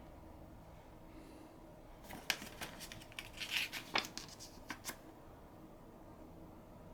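Paper pages of an instruction manual being handled and turned: a cluster of crinkling rustles and light clicks for about three seconds in the middle.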